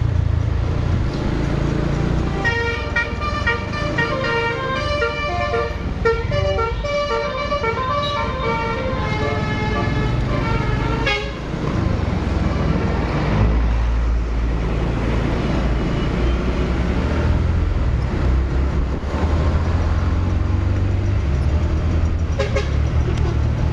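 A vehicle horn sounding a rapid run of short notes that step up and down in pitch for about eight seconds, starting a couple of seconds in. Under it is the steady low rumble of engines and road traffic.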